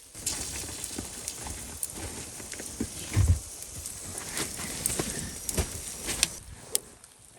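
Gusty blizzard wind, a steady rush with irregular clicks and knocks through it and a low rumble of wind on the microphone about three seconds in.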